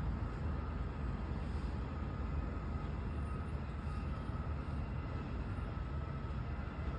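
Garbage truck's engine running with a steady low rumble and a faint, steady high whine over it.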